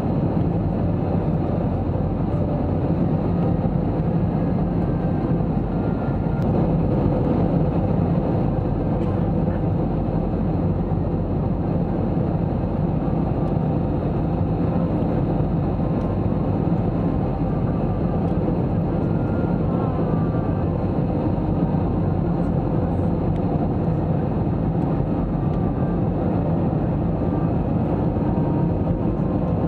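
Steady cabin noise inside an Airbus A321-200 airliner: a continuous rumble of engines and airflow with a low, even hum.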